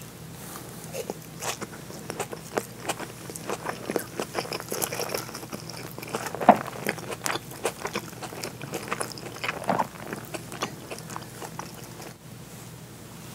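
A person chewing mouthfuls of seared bonito (katsuo no tataki) topped with sliced green onions, heard as a steady stream of short, irregular mouth clicks.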